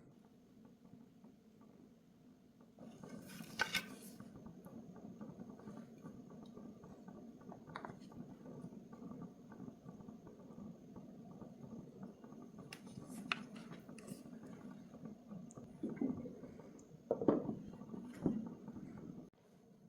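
Kitchen cooking sounds: a steady low rumble with a handful of sharp knocks and clinks of cookware, several of them close together near the end.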